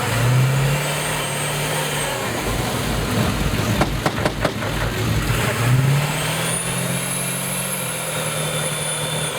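Ford F-250 turbo diesel engine revved hard twice, each rev held for a couple of seconds, with a high turbo whine over the engine note. A few sharp knocks fall between the two revs.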